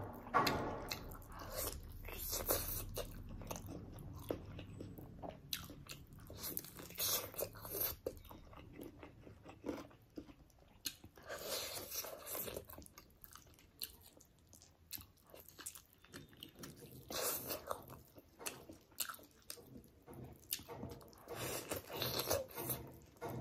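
Close-miked biting and chewing of spicy chicken leg pieces, the coating crunching and the mouth smacking in irregular bursts.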